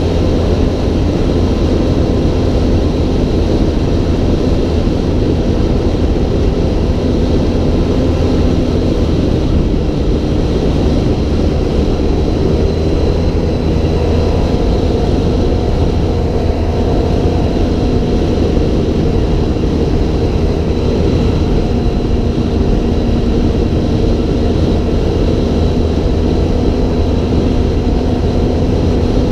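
A vehicle engine running steadily under way, its pitch drifting only slightly, over a loud continuous low rumble.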